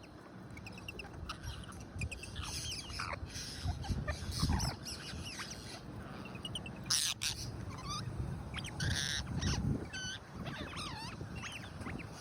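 A flock of rose-ringed parakeets calling with many short, harsh, rising and falling screeches, one over another. There is a sharp crackling noise about seven seconds in.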